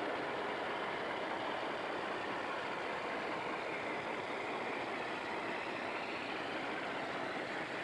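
Diesel locomotive engine running steadily at idle, an even rumbling noise with no changes.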